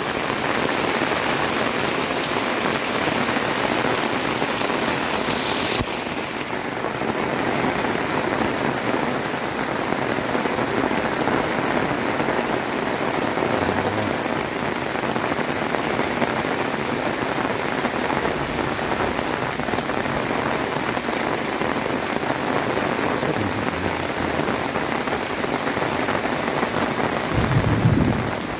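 Heavy rain pouring steadily, with a short low rumble of thunder near the end.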